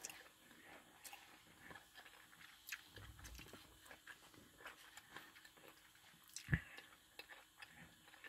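A person chewing food quietly, with faint scattered mouth clicks and one louder click about six and a half seconds in.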